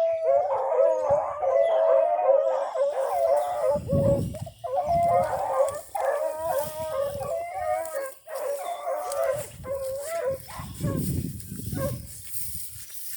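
A pack of rabbit hounds baying on a rabbit's trail, several voices overlapping, the sign that the dogs are on the scent and running it. The chorus thins out after about ten seconds.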